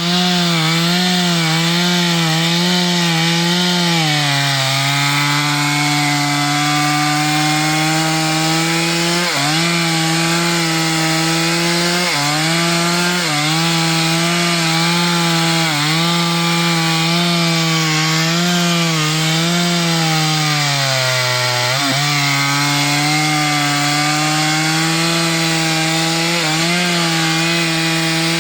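Chainsaw running at high revs while cutting wood. The engine note drops and holds lower as the chain bites into the cut, with brief sharp dips every few seconds.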